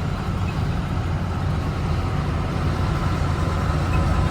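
Steady low drone of a vehicle under way, engine and road noise heard from inside the cab, with a faint steady whine above it.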